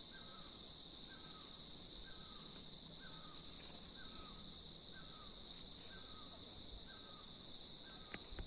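Steady high-pitched chirring of insects, with a short, hooked call repeated evenly about every 0.8 seconds throughout.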